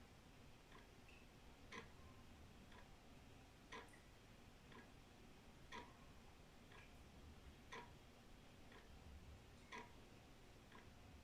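Old wall clock ticking, about one tick a second, with a louder beat alternating with a softer one in a steady tick-tock.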